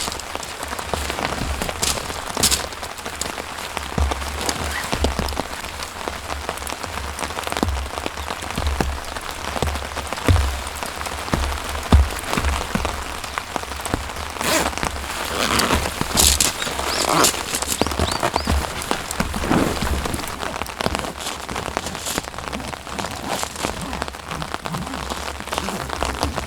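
Steady rain falling, with many irregular heavy drops striking close by; a run of louder drops comes a little past the middle.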